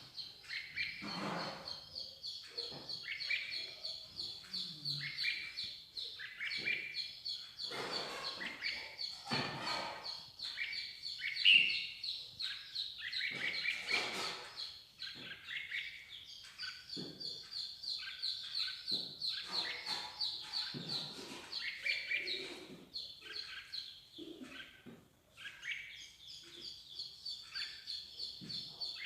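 Small songbirds chirping and singing, a near-continuous run of rapid high notes with shorter, lower calls and scratchy notes mixed in.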